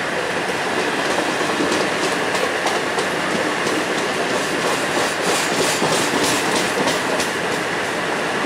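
Passenger train running, its wheels clattering over rail joints and points, with a series of clicks through the middle and a faint steady squeal.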